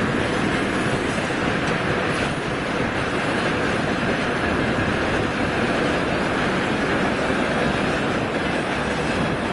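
Freight train hauled by a three-section electric locomotive crossing a steel truss railway bridge: a steady, continuous noise of wagon wheels on the rails.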